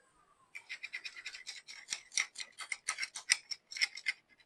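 Quick, rapid scrubbing strokes against the inside of a coffee grinder, starting about half a second in, cleaning out caked-on coffee residue.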